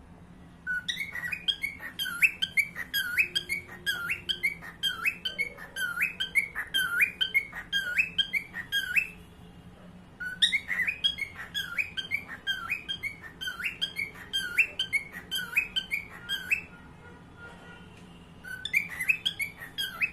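Pet cockatiel singing: quick runs of short, sharply sweeping chirp-whistles, several a second, in three bouts with two brief pauses.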